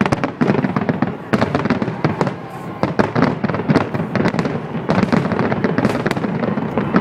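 Fireworks display: a dense, rapid run of cracks and pops over a steady rumble of bursts.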